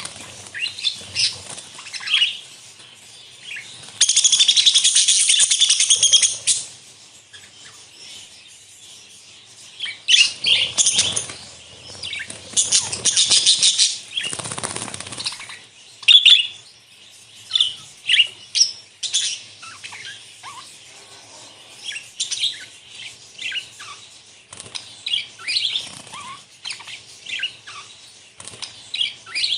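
A flock of budgerigars chirping and chattering, with many short, high calls throughout. Two louder rustling bursts of wing flapping come at about four seconds in and again around thirteen seconds in.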